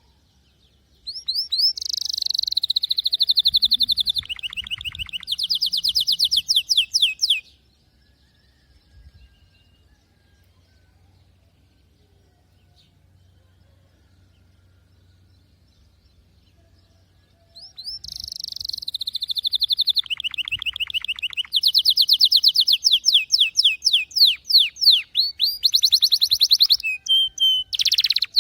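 Domestic canary singing in high-pitched, fast trills of rapidly repeated notes. It sings one phrase of about six seconds, stops for about ten seconds, then starts a longer phrase of trills.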